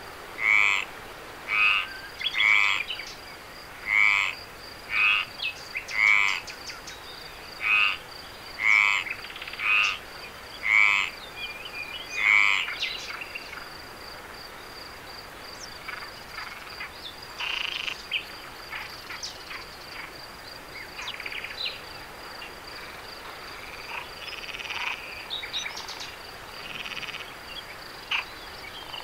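A frog croaking over and over, about one short call every second, which stops about halfway through. A thin, steady, high insect trill runs underneath, with scattered faint chirps.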